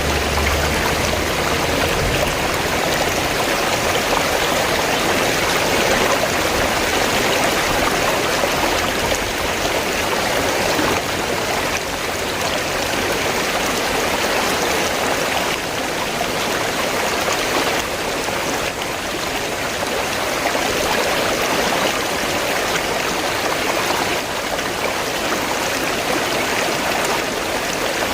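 River water flowing: a steady, unbroken rushing and babbling with no pauses.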